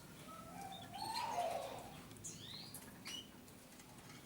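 Canaries chirping in short calls, with wings fluttering and a few soft clicks.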